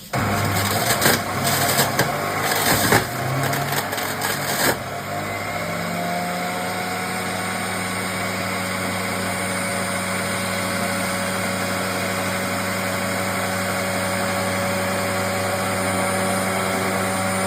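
Usha juicer mixer grinder's electric motor switching on and running, with loud irregular crunching for about the first five seconds as the vegetable pieces are cut. Its pitch then rises a little and it settles into a steady hum.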